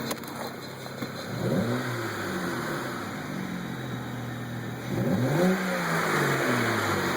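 BMW N54 twin-turbo inline-six idling and revved briefly twice, the pitch rising and falling back each time, with the ticking noise the owner later cured by replacing both boost pressure converters.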